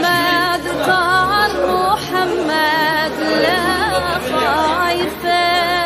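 Music with a solo voice singing an ornamented, wavering melody over a steady low drone.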